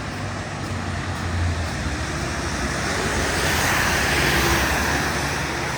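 Wet-road traffic: a city bus passes, its tyres hissing on the rain-soaked pavement over a low engine hum, the hiss swelling to its loudest about four seconds in and then easing.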